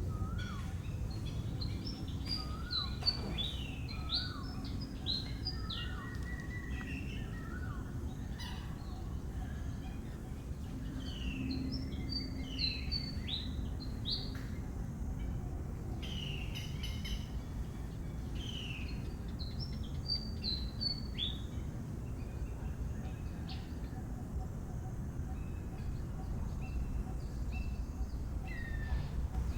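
Birds calling in short, falling chirps that come in clusters: in the first few seconds, again around the middle, and once more a little later. A steady low rumble sits underneath throughout.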